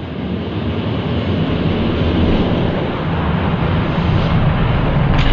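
Die-cast toy monster trucks rolling fast down a plastic track: a steady rumble that grows a little louder, ending in a few sharp clatters as they reach the end of the track.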